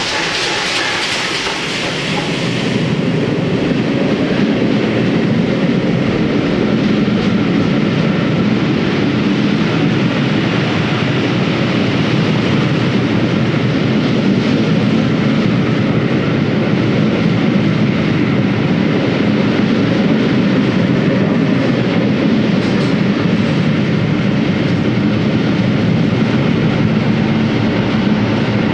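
Steam-hauled train of coaches running through a station at speed: a steady rolling rumble of wheels with clattering over the rail joints, after a brighter rushing hiss in the first couple of seconds.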